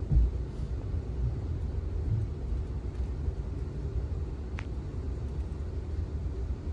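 Amtrak Auto Train passenger car rolling along the track: a steady low rumble, with a thump just after the start and a faint click about four and a half seconds in.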